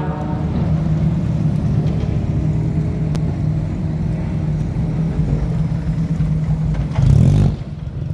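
Formula race car engine running low with a steady rumble as the car slows, with a brief louder surge about seven seconds in.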